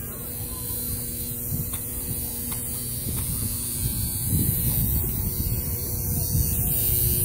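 Low rumbling noise with a faint steady hum.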